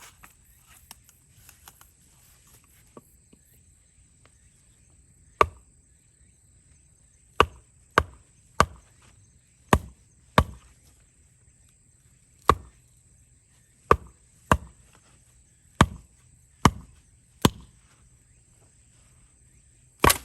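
A dozen or so sharp chopping strikes of a blade into wood, one at a time and unevenly spaced, from about half a second to two seconds apart.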